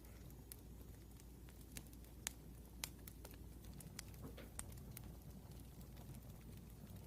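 Wood fire crackling faintly, with irregular sharp pops and snaps over a low steady background.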